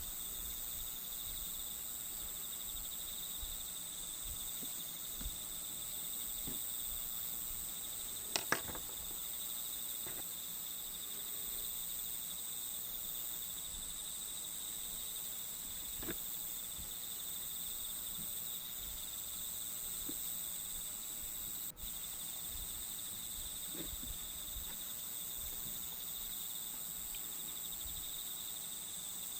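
Steady, high-pitched chorus of chirping crickets, with a few light clicks, the loudest a quick pair about eight seconds in.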